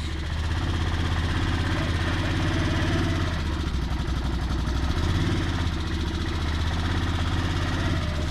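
Vehicle engine running at a steady speed, with a faint change in its note about three seconds in and again about five seconds in.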